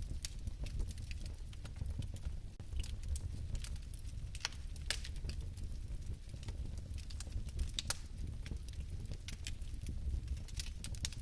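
Bio-fireplace flame burning with a steady low rumble and sparse, irregular sharp crackles and ticks.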